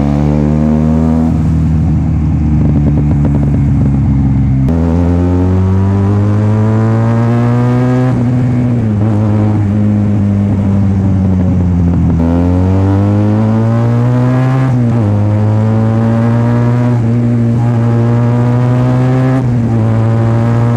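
Benelli TNT 300 parallel-twin engine through a free-flow slip-on exhaust, very loud, accelerating up through the gears. Its pitch climbs in each gear and drops at each of about four upshifts. Before the first shift it runs at low, steady revs with a rapid crackle.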